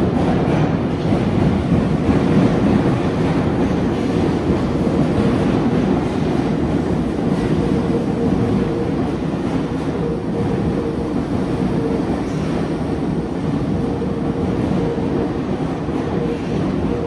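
Electric commuter train running into an underground station platform: a steady rumble of wheels and motors, with a faint steady hum coming in about a third of the way through.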